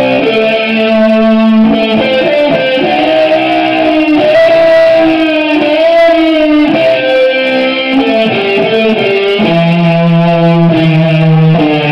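Electric guitar played loud through an amplifier under test after repair: sustained lead notes, some bent and wavering with vibrato.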